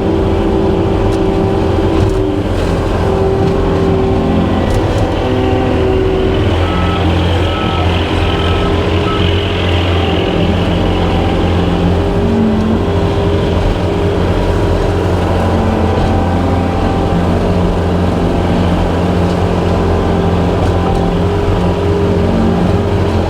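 Skid steer engine running steadily under load, powering a hydraulic brush hog attachment as it mows. A short run of high beeps comes about a third of the way in.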